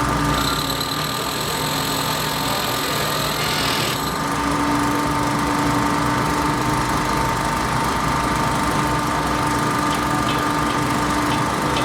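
Construction machinery engine running steadily at the bridge work site. A high-pitched whine sits on top of it for about the first four seconds, then stops.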